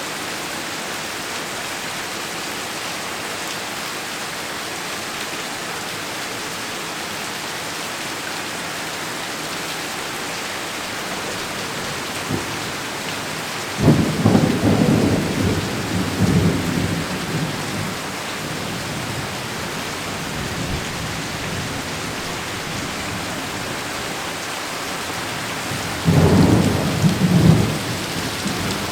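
Heavy rain falling steadily, with two sudden peals of thunder rumbling over it, one about halfway through that rolls on for a few seconds and a second, shorter one near the end.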